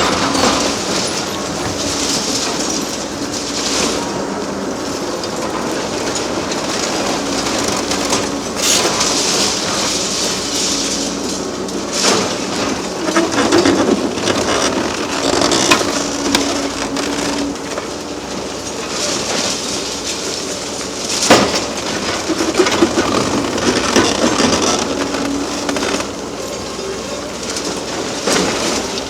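Hydraulic demolition excavator breaking up a concrete bridge: the engine and hydraulics run with a steady hum that comes and goes, over continuous rattling and clatter of broken concrete and rubble, with sharp knocks now and then.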